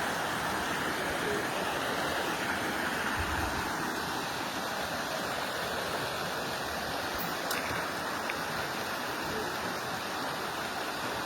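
Steady rushing noise of wind on the microphone while riding a bicycle, with a low thump about three seconds in.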